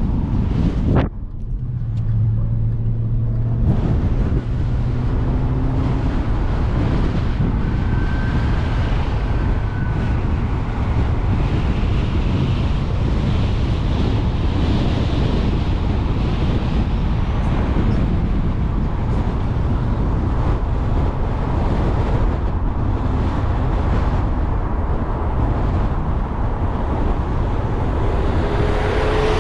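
Wind rushing over a GoPro Hero 8's microphone on a moving car, mixed with engine and road noise. About a second in, the hiss cuts out for a couple of seconds and leaves a steady low hum.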